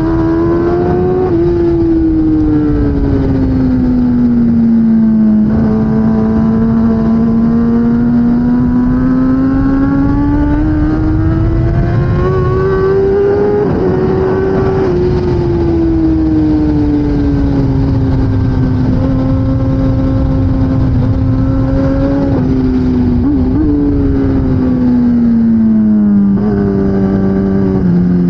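2016 Kawasaki ZX10R inline-four superbike engine at race pace. Its note climbs steadily for several seconds, then falls away, with a few sudden steps in pitch as gears change.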